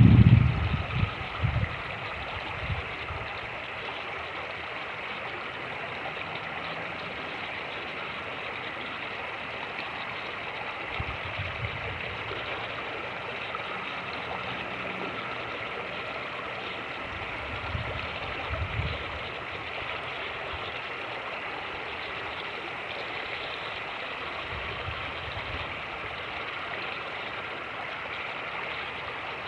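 Fast-moving creek rushing steadily over rocks. Low gusts of wind buffet the microphone in the first second or so, and briefly again several more times later on.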